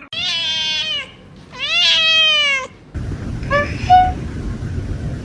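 A cat meowing twice, two long, loud, drawn-out meows of about a second each. Then, after a sudden change in the background to a steady low rumble, come a few short, high, rising calls.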